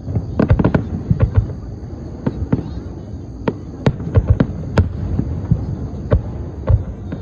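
Aerial fireworks going off: a rapid, irregular string of sharp bangs and pops, several close together.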